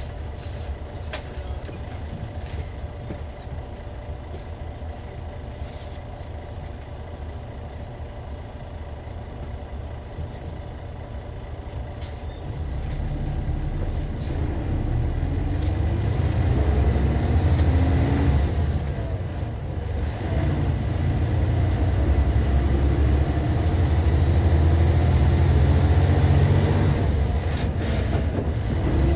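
Hyundai D6CC Powertec 380 inline-six diesel engine of a Hyundai Universe bus, running low and steady. About twelve seconds in it gets louder and revs up, drops back briefly as with a gear change, then climbs again under load.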